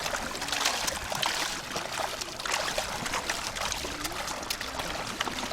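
Shallow seawater lapping and trickling, with many small crackling splashes.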